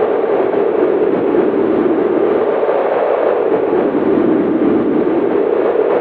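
Steady wind noise, its pitch slowly sinking and rising as it gusts.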